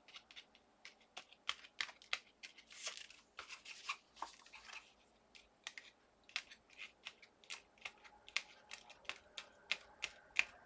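Small die-cut paper pieces being poked out of an intricately cut tag: a string of faint, irregular clicks and ticks with a few brief papery rustles.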